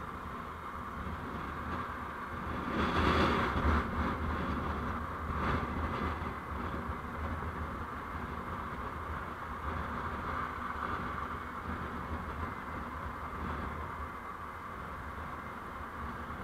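Steady road and engine noise heard from a moving vehicle in traffic, with a louder swell about three seconds in and a shorter one a couple of seconds later, like vehicles passing close by.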